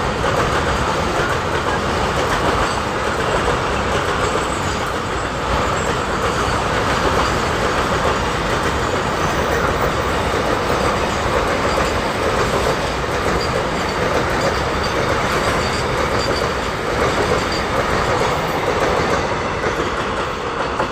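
Long Indian Railways freight train behind a WAG9 electric locomotive, its wagons rolling steadily past with continuous rumble and clickety-clack over the rail joints.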